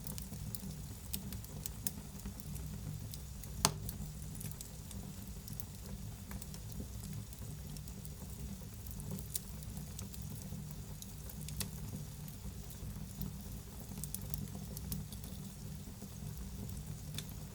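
Wood fire burning in a fireplace: a steady low rumble and hiss with scattered sharp crackles and pops, the loudest pop about three and a half seconds in.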